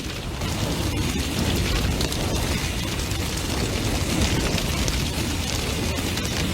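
Large bonfire burning strongly: a steady low roar of flames with constant crackling and many small sharp pops.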